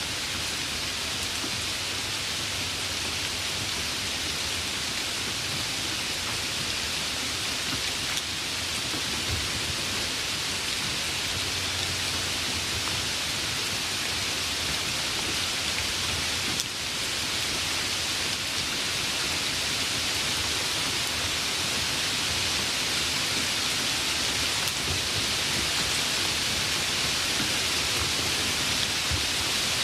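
Steady, heavy rain: a dense, even hiss of falling drops. A low rumble of thunder comes in about a third of the way through and fades out around the middle.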